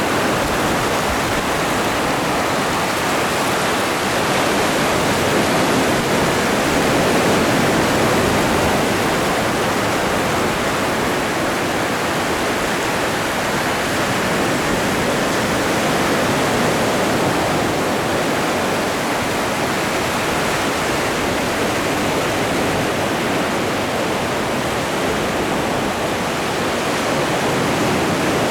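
Atlantic Ocean surf: waves washing continuously as an even rush, swelling gently in loudness now and then.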